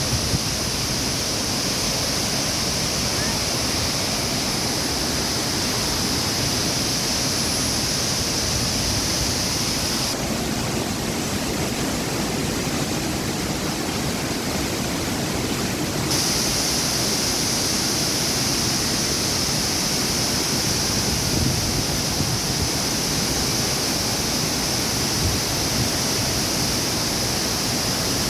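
Steady rush of a waterfall's falling water: a dense, even wash of noise. A high hissing layer in it drops out for about six seconds midway, then returns.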